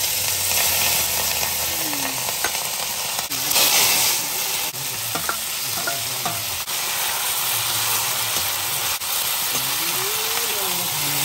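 Raw chicken pieces sizzling and frying in hot oil in a black iron wok, stirred and turned with a steel ladle. The sizzle is steady and surges loudest about four seconds in, as more pieces go in from the plate.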